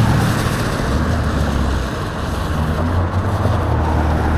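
Steady traffic and road noise from a moving electric bike on a wet street: an even hiss with the low hum of a nearby vehicle's engine underneath.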